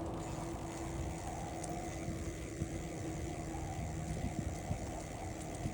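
Steady low rumble of a bicycle ride, tyres running over the road surface, with a faint steady hum and a few small clicks and rattles.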